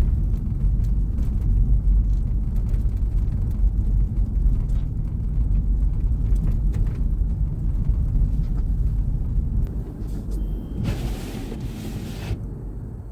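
A car being driven, giving a steady low rumble of engine and road noise that grows quieter over the last few seconds. A brief hiss comes in about eleven seconds in and cuts off a second or so later.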